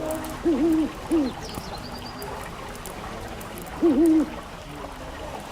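Low hooting calls from a bird, a group of three short arched notes and then a pair a few seconds later, with a faint higher twittering just after the first group.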